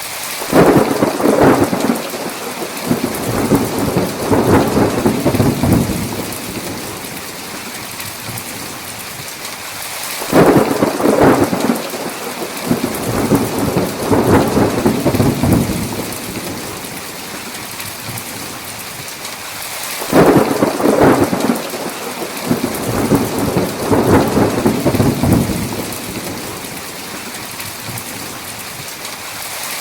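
Heavy steady rain with thunder: three rolls of thunder, each breaking sharply and rumbling on for several seconds, about every ten seconds.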